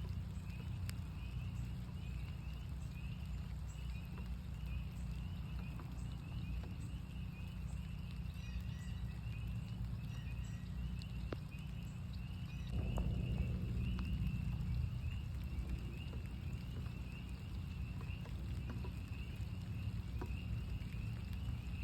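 Northern spring peepers calling in a steady chorus of short, high, repeated peeps, over a low steady rumble with scattered drips of rain. About halfway through, a louder low whoosh swells for a couple of seconds and fades.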